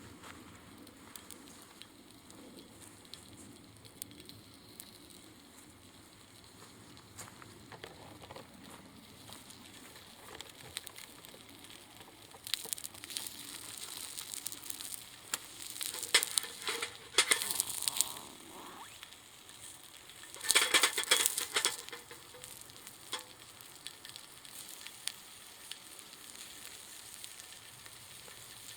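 Sizzling and crackling over a small wood fire, quiet and steady at first, then in loud bursts from about twelve to eighteen seconds in and again around twenty-one seconds.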